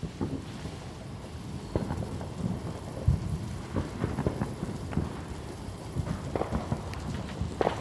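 Fireworks going off down the street: irregular low booms and pops over a rumbling crackle, the strongest boom about three seconds in.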